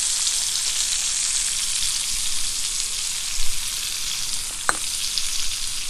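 Fish frying in oil on a flat iron tawa griddle, a steady sizzle, with a single light click late on.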